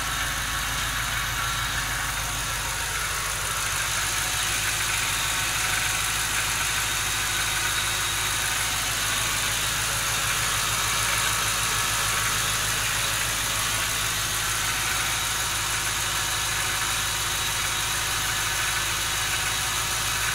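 2006 Ford Mustang GT's 4.6-litre V8 idling steadily, with the rough idle the owner notices once the engine is warmed up.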